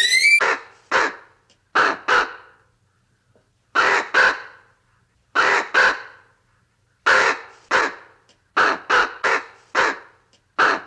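A bird giving short, harsh caws, mostly in pairs, repeated about every second and a half.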